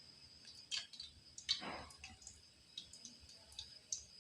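Faint crackling and popping of breaded potato nuggets frying in oil over a low flame, scattered irregular clicks, with one louder, longer sound about one and a half seconds in.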